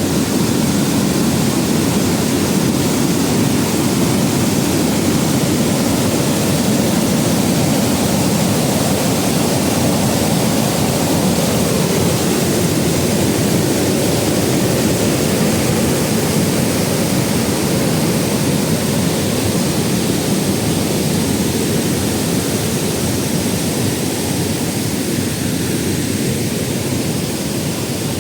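Steady rushing of a tiered waterfall, a dense even noise heaviest in the low range, easing slightly near the end.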